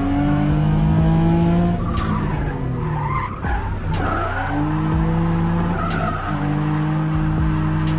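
Drift car engine held at high revs, dropping away about two seconds in and climbing back up a couple of seconds later, with tires squealing as the car slides.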